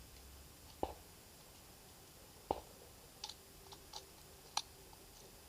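A handful of faint, sharp clicks and taps, spaced irregularly a second or so apart. These are handling sounds, not shots.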